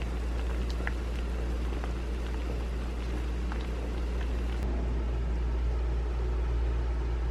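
Steady low rumble of city street traffic with a few faint ticks.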